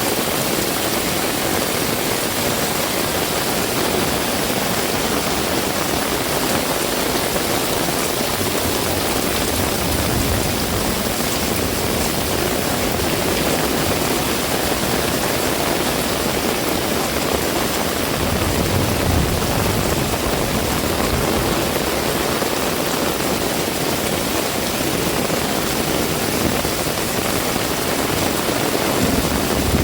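Heavy rain falling steadily, a dense even hiss. A low rumble swells briefly about a third of the way through and again about two-thirds through.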